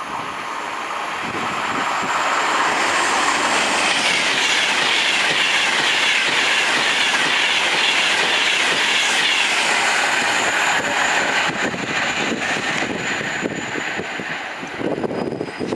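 A train passing along the tracks with wheel and rail noise. It builds over about two seconds, stays loud and steady for several seconds, then slowly fades away.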